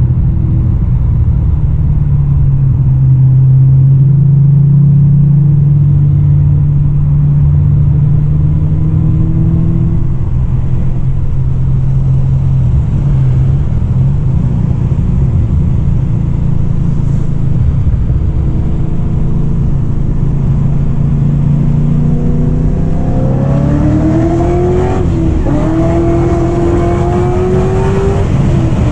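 Supercharged LSA V8 in a Holden VE Commodore, running at low, steady revs. About three-quarters of the way through it revs up with a rising pitch, briefly dipping once at a gear change.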